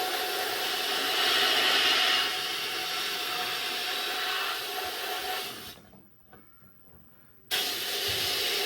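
A steady, loud hiss of rushing air with a faint steady tone under it. It fades out about six seconds in, and after under two seconds of near silence it cuts back in suddenly.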